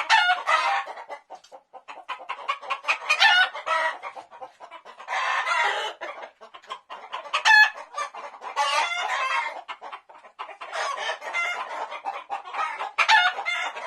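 Birds calling again and again, short pitched calls and clucks one after another with brief gaps between.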